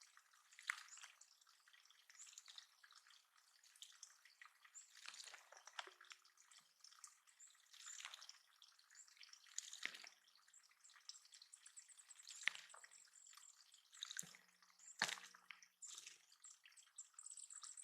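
Faint water dripping and trickling in a bird pond, as scattered small drips. Faint high bird chirps come in near the end.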